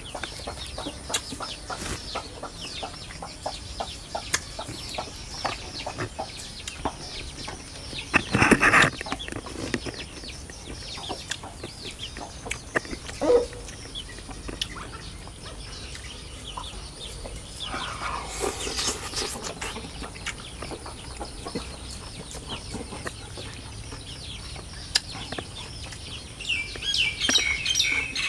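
A man chewing and lip-smacking close to the microphone, a steady run of small wet clicks. There is a louder knock about eight seconds in, a rustle a little past halfway, and birds chirp in the background near the end.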